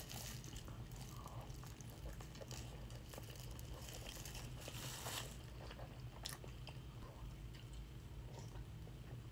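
Close-miked mouth sounds of someone chewing a mouthful of burrito: faint wet chewing with a few sharper clicks.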